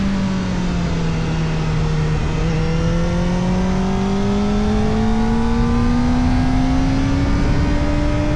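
Kawasaki Ninja ZX-4RR's 399 cc inline-four running through an Arrow Indy Race Evo titanium exhaust with the dB killer fitted, the revs dipping a little in the first two seconds and then rising slowly and steadily as the bike accelerates in gear.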